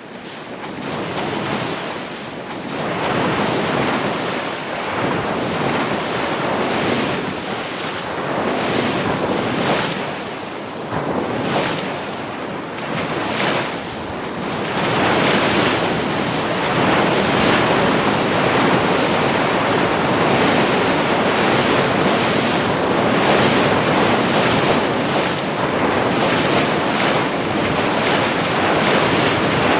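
Ocean surf: waves breaking and washing in as a continuous rushing that swells and eases, steadier and a little louder from about halfway.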